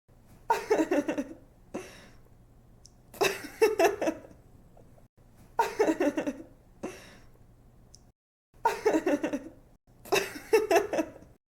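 A young woman laughing in about five short bursts a couple of seconds apart, each a quick run of giggles falling in pitch, over a faint low hum.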